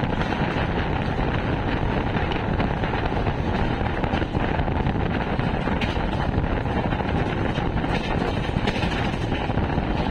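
Indian Railways coach running at speed, its wheels rumbling steadily on the rails, heard from the open door with wind buffeting the microphone.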